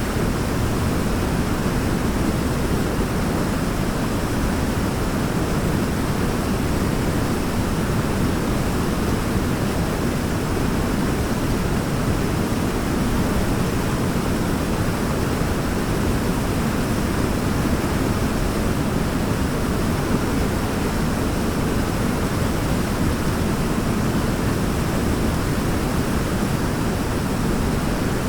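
Waterfall: water falling and rushing in a steady, unbroken roar of noise, heaviest in the low range.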